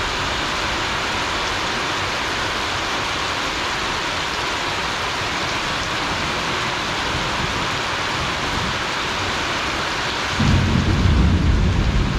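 Heavy rain falling steadily, an even hiss. About ten seconds in, a loud low rumble sets in under the rain.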